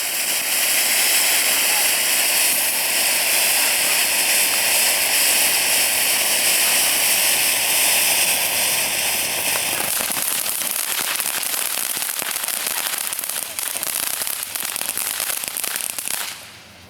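A lit ground firework fountain spraying: a loud, steady hiss with a faint steady whistle in it for about ten seconds, then dense crackling that cuts off abruptly near the end.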